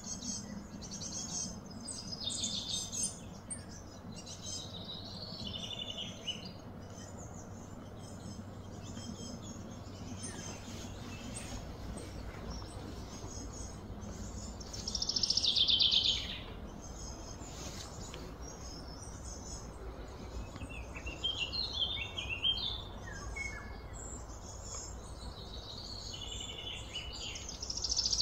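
Birds chirping and calling over a steady low background hum. The loudest run of rapid calls comes about halfway through, and more calls come near the end.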